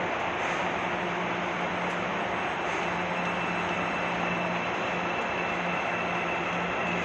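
Salvador Metro train running through the station, a steady rail noise with a low hum, and a faint high whine coming in about three seconds in.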